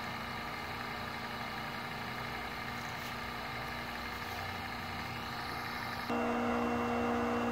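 Electric motor of a chain-sharpening grinder humming steadily; about six seconds in, a louder hum with a steady low tone takes over abruptly.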